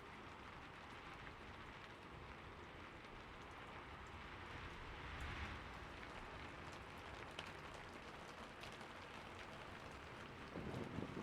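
Steady, faint rain hiss with scattered drops ticking. Near the end a low rumble of thunder begins to build.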